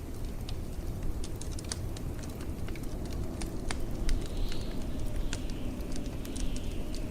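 Wood fire crackling in a fireplace, with irregular sharp snaps and pops and a couple of brief hisses, over a steady low rumble of blizzard wind.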